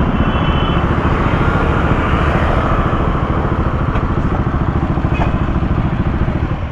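A motorcycle engine running steadily, with a rapid, even train of firing pulses.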